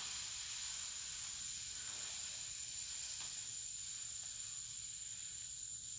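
Steady fizzing hiss of a truck-wash concentrate foaming up in a bucket as its sodium hydroxide component reacts with the water.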